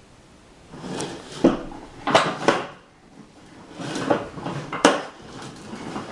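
Plastic ride-on toy tractor rolling and bumping against a closed door: rumbling and scraping with sharp knocks, in two bouts of about five knocks in all.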